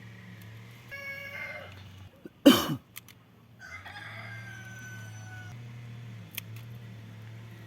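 A rooster crowing twice: a short call about a second in and a longer, falling crow from about four seconds. A loud, brief noise cuts in between them, about two and a half seconds in, over a steady low hum.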